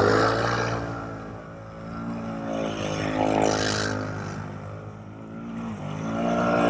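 Can-Am Renegade ATV engine running hard through deep snow, its revs falling about a second in, climbing again around three seconds, dropping near five seconds and rising once more toward the end.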